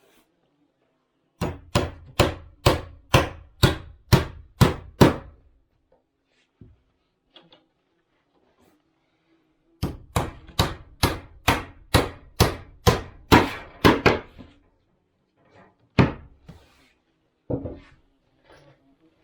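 Hammer striking wood in steady runs of about two blows a second: about nine blows, a pause, then about a dozen more, and two single blows near the end.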